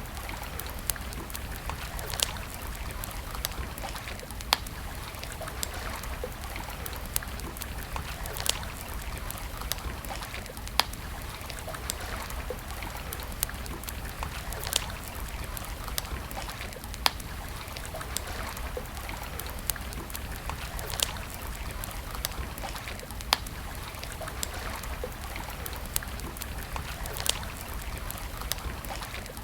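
Wood campfire crackling, with sharp pops every second or two, over the steady rush of flowing stream water.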